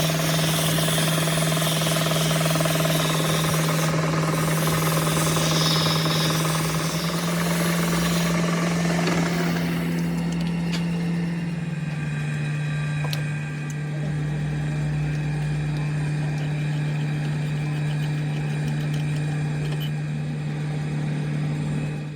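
A machine running steadily with a constant low hum; a loud hiss over it for the first ten seconds or so eases off after that.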